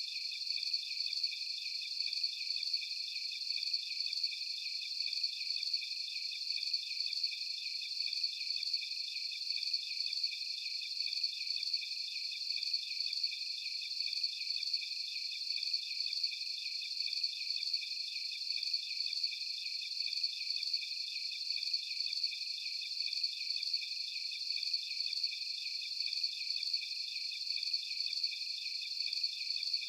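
Crickets chirping in a steady, high-pitched chorus with a fast, even pulse.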